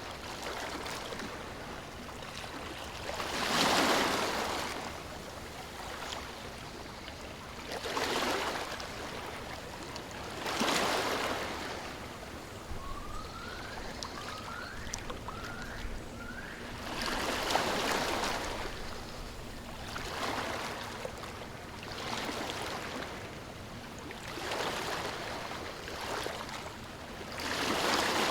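Ocean waves washing onto a shore, each swell rising and falling every few seconds. About halfway through, a bird gives four short rising calls in quick succession.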